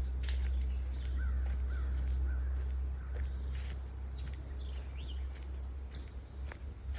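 Outdoor trail ambience: a few short, faint bird calls over a steady high insect drone and a low rumble, with scattered light clicks of footsteps.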